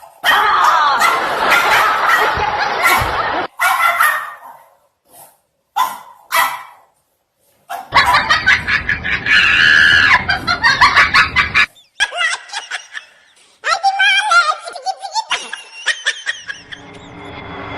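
People laughing and shrieking in several loud stretches broken by short pauses.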